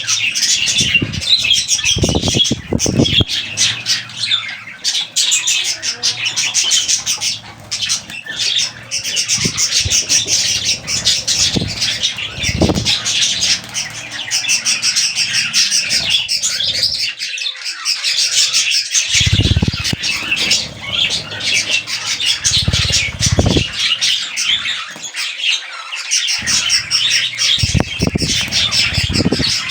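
Budgerigars chattering and warbling nonstop in a dense high-pitched stream, broken by a few short low thumps.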